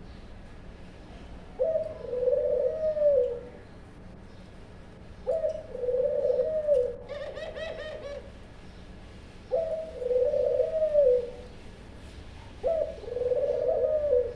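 Captive doves (ghugu) cooing: four repeated coo phrases, each about two seconds long, spaced three to four seconds apart. A brief higher-pitched call comes about seven seconds in.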